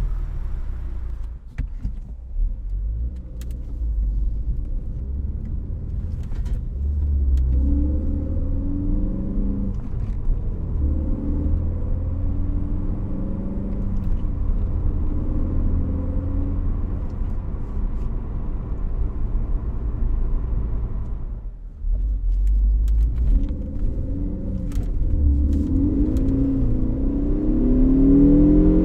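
2016 Ford Focus ST's turbocharged 2.0-litre four-cylinder engine and exhaust running under way with a strong low drone. The sound dips briefly about three-quarters of the way through. Near the end the engine note climbs as it accelerates.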